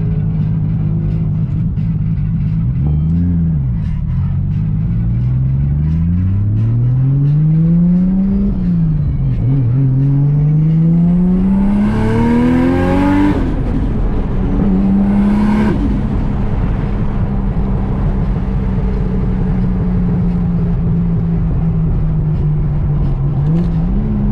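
A car engine accelerating hard through the gears. Its pitch climbs in two long sweeps, falling back at each gear change, about eight and thirteen seconds in. There are short hissing rushes around the second shift and a couple of seconds later, then the engine holds a steady cruising note.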